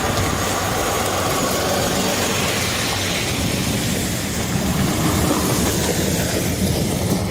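Heavy logging machinery's diesel engine running steadily, with a constant mechanical rumble and clatter.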